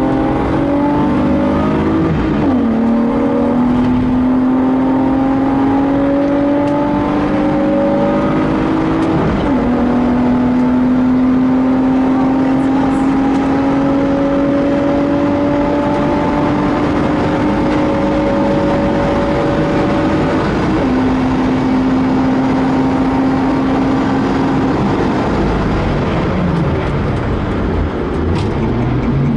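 BMW E36 320i coupe's 2.5-litre M50B25TU straight-six pulling hard under full throttle, heard from inside the cabin. The engine note rises steadily, with sudden drops in pitch about two and a half and nine seconds in as it is shifted up. After about twenty seconds the note steps down and holds off-throttle, then falls away over the last few seconds as the car brakes from speed.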